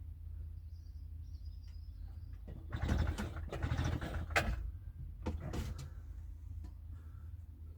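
Small petrol generator being pull-started: two rasping yanks on the recoil starter, the first about two seconds long and the second shorter, and the engine does not catch.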